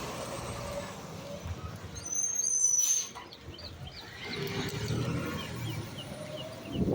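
Garbage truck running with a low rumble. A brief high-pitched squeal comes about two and a half seconds in, then a string of short high chirps.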